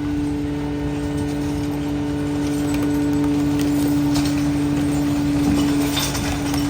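McNeilus rear loader garbage truck running its packing cycle: the engine is held at raised speed to drive the hydraulics, giving a steady, unchanging whine, with a few light clatters from the hopper.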